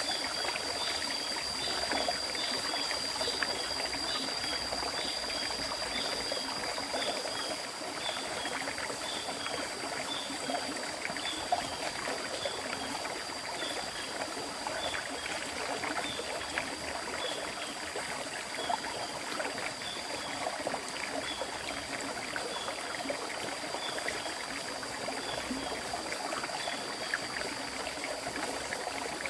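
River water flowing steadily, a continuous babble of small splashes. A faint steady high whine and a short high chirp repeating about once a second sound over it.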